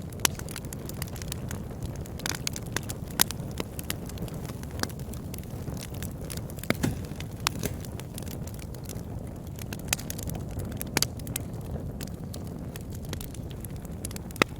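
Wood fire burning in a fireplace: a steady low rush of flame with irregular sharp crackles and pops, a few of them louder.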